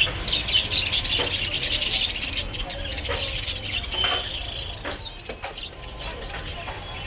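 Many small birds chirping and twittering together in a steady stream of short high calls, over a steady low rumble with a few scattered clicks.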